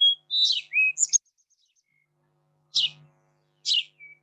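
Sparrow chirping: a quick run of short, high chirps in the first second, then a pause and single chirps about a second apart.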